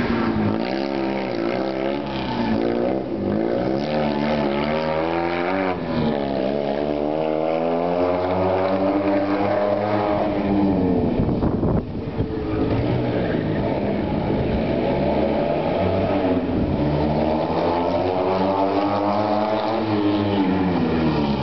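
Fiat 126p rally car's air-cooled two-cylinder engine revving hard, its pitch climbing and dropping back again and again as the car accelerates and slows through a tight course.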